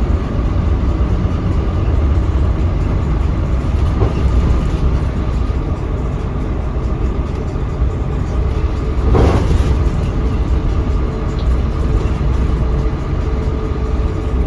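Scania K310UB city bus's five-cylinder diesel engine running under way, heard from inside the passenger cabin: a steady low rumble with a faint whine, and a brief burst of noise about nine seconds in.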